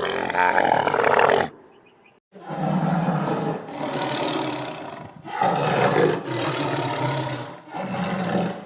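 Big cat roaring: a run of about six loud calls, each a second or so long, with a short pause after the first.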